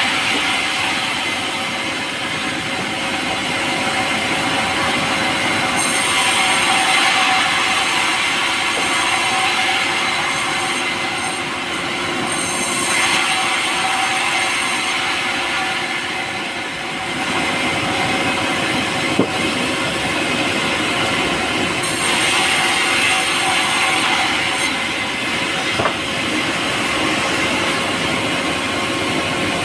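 Power saw running through pulai, a light soft timber: a steady machine noise with a constant hum and a high, squeal-like hiss that grows brighter in stretches about 6 and 22 seconds in.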